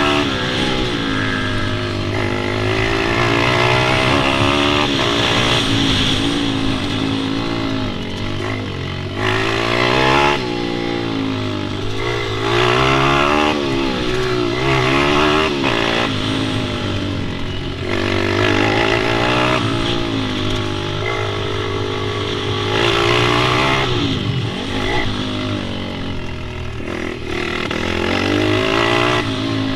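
Pit bike engines revving up and down, the pitch rising and falling every second or two as the bikes accelerate and back off, with more than one engine heard at once.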